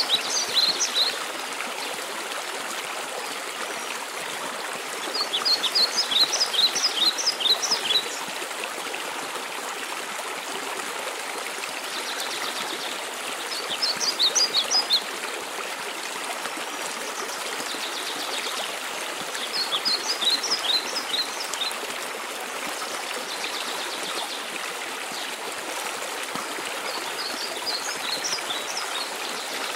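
Steady rush of a waterfall. A songbird sings five short phrases of quick, high, chirping notes, one about every six seconds.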